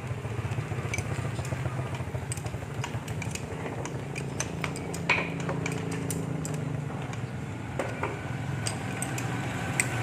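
Light metallic clinks and taps, as of tools and metal pump parts being handled, scattered over a steady low hum.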